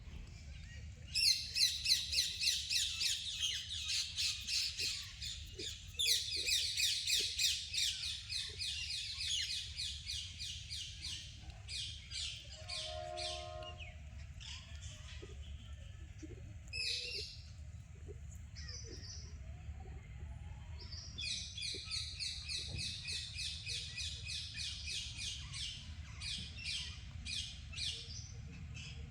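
Rapid runs of high, harsh squawking calls, several a second, coming in long bouts with scattered single calls between them, over a steady low rumble.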